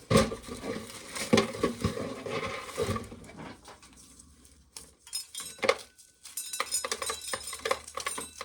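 Dry corn being shelled by hand: kernels clicking and rattling as they break off the ears and drop, in irregular bursts, with a quieter lull midway and a dense run of rapid clicks near the end.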